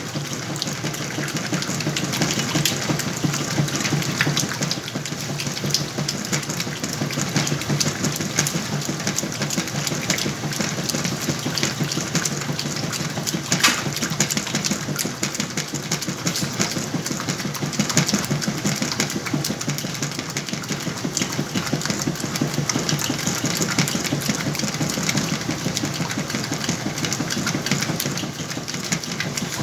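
Whirlpool washing machine running through its cycle: a steady motor hum under a constant busy rattle.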